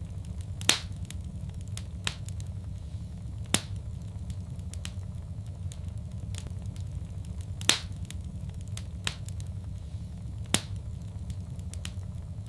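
Fireplace fire crackling: sharp pops at uneven intervals, the loudest about a second in and near two-thirds of the way through, over a steady low rumble.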